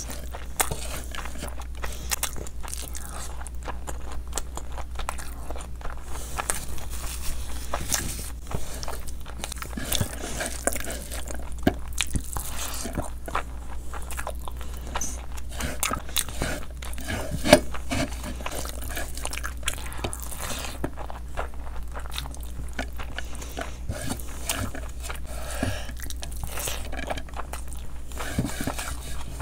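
Close-miked chewing and wet mouth sounds of a person eating rice and curry by hand, with frequent small clicks and smacks and a sharper smack about two-thirds of the way in.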